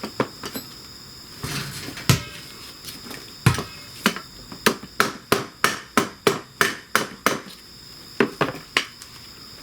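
Hammer striking a part: a few separate blows, then a quick run of about ten evenly spaced taps at roughly three a second, then a few more blows near the end.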